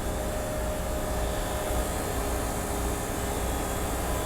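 Steady low drone of running machinery with a faint steady whine: a Northern Lights diesel generator running in the yacht's engine room nearby.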